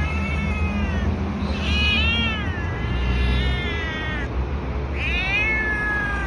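Domestic cat meowing repeatedly in long, drawn-out calls that rise and fall in pitch, an attention-seeking, affectionate cat.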